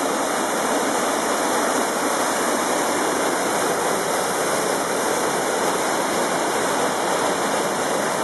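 Spring-swollen waterfall pouring and crashing, a loud, steady rush of falling water.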